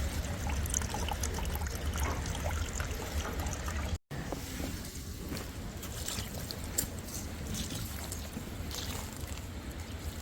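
Water trickling and pouring, with scattered small clicks, broken off by a split-second dropout about four seconds in.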